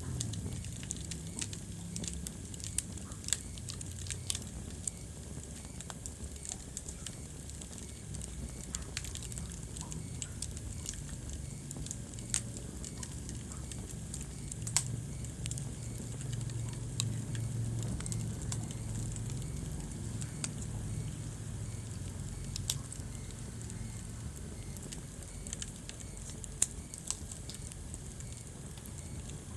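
Wood fire crackling in a fireplace: scattered sharp pops and snaps, a few of them louder, over a steady low rumble of the flames.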